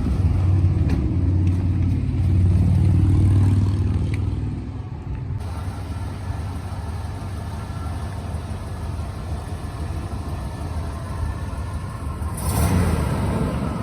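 Car engine running with a low, steady hum. It drops to a quieter rumble about five seconds in and swells briefly near the end.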